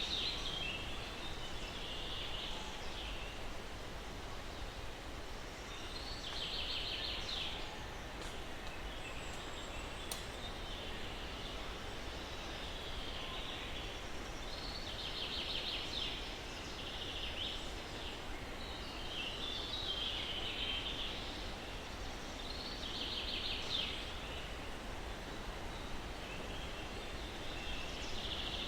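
Steady breeze through the pine trees with a songbird singing short, high, trilled phrases that come again every few seconds.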